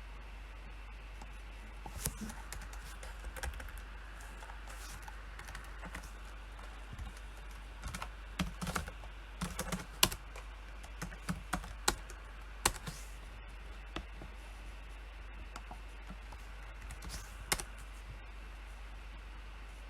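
Typing on a PC keyboard in irregular bursts: a few scattered keystrokes, then a quick run of keys in the middle, then single keys again near the end, over a steady low hum.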